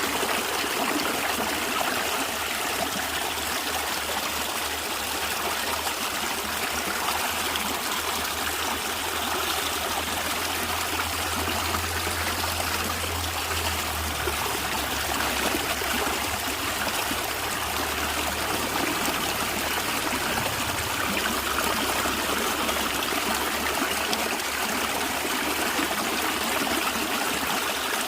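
Stream water flowing and gurgling steadily over stones, a continuous babbling rush.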